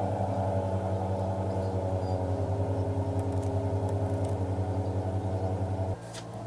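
John Deere X738 garden tractor engine running steadily with an even pulsing beat. It cuts off abruptly near the end, leaving a quieter hum.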